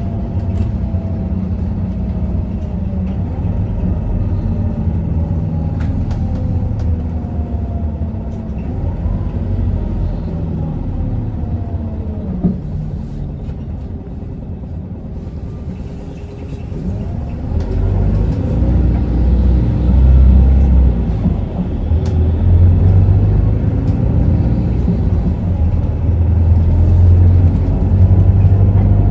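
Isuzu Erga city bus heard from inside the cabin, its 5.2-litre four-cylinder diesel running under way. Over the first half a whine falls in pitch and the sound eases off as the bus slows; about two-thirds through a low engine rumble grows louder as it pulls away again.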